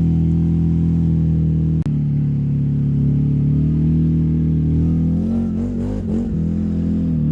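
Engine of an old Honda with a freshly rebuilt motor, running steadily under way and sounding healthy; about five seconds in the revs rise and fall briefly before settling back.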